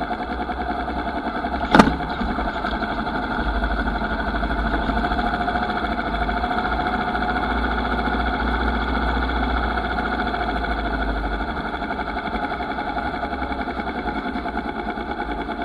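Motorcycle engine running steadily, a little louder through the middle, with one sharp knock about two seconds in.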